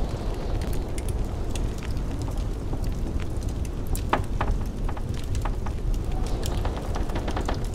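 Wood fire crackling in a fireplace, with frequent sharp pops and one louder snap about four seconds in, over the steady low rush of blizzard wind.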